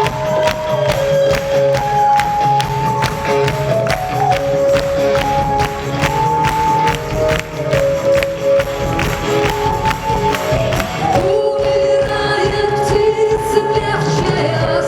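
Live rock band music: a steady drum beat under a melody of held notes that step up and down. About eleven seconds in, the drums drop out and sustained notes carry on.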